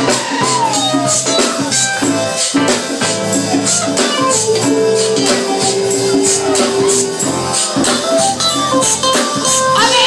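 Live band playing an instrumental passage of a soul ballad, with steady shaken percussion on the beat under held melody notes.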